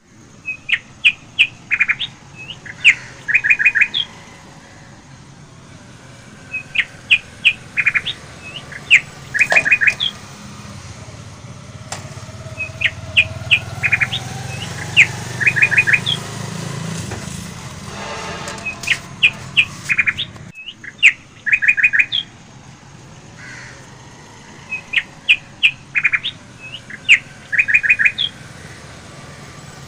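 Birdsong: quick series of sharp high chirps and short trills, the same phrase coming back in bursts about every six seconds. A low rumble swells and fades under it in the middle.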